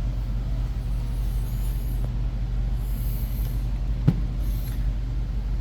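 Steady low hum, with a few faint rustles and one sharp click about four seconds in as a part is handled on the workbench.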